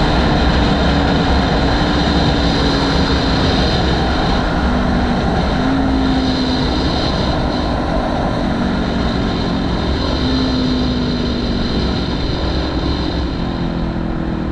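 Motorcycle riding at speed: heavy wind rumbling on the microphone over the steady hum of the engine, whose pitch steps up and down a few times.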